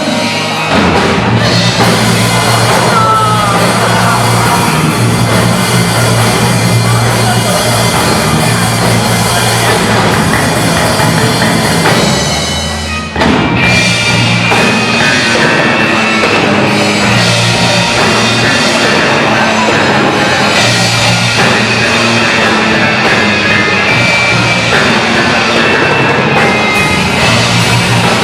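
Loud rock music with a drum kit. It thins out and drops away briefly about 13 seconds in, then comes back in full.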